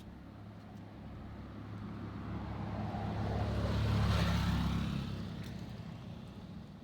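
A motor vehicle driving past: its engine hum and tyre noise build up, are loudest about four seconds in, then fade away.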